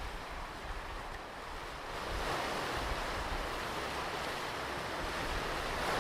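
Ocean surf on a beach: the wash of a wave swells into a steady hiss about two seconds in, with low wind rumble on the microphone.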